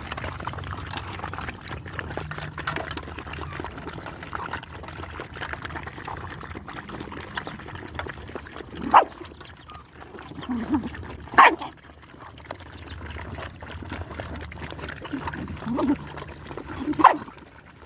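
Dogs eating, with a few short barks breaking out over the background noise: three sharp ones, about nine, eleven and seventeen seconds in.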